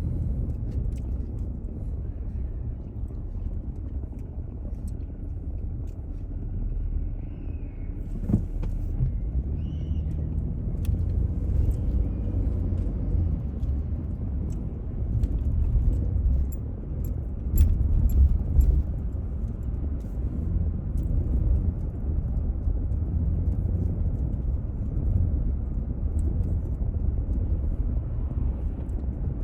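Car driving on city streets, heard from inside the cabin: a steady low rumble of road and engine noise, with occasional light clicks and rattles.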